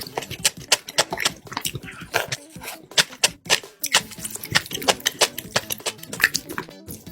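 Close-miked mouth sounds of eating soybean noodles and kimchi: irregular wet chewing, smacking and crunching, several quick clicks a second.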